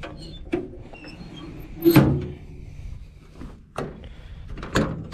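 Metal truck-bed toolbox doors and latches being handled: several knocks and clanks, the loudest about two seconds in.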